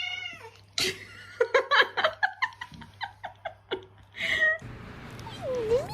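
A cat meows once at the start, then a person laughs in a rapid run of short bursts.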